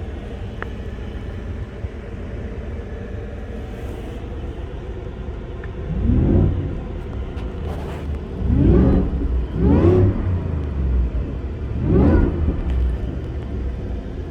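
Supercharged V8 of a 2021 Shelby Super Snake F-150 idling, then revved four times in short throttle blips, each rising and falling in pitch, starting about halfway through.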